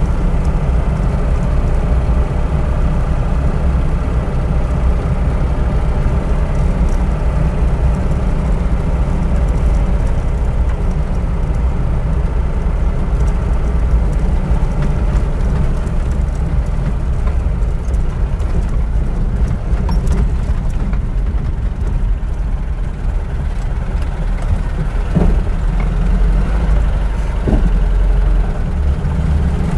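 VAZ-2121 Niva's four-cylinder petrol engine running steadily at a constant speed, a low, even engine note with no revving.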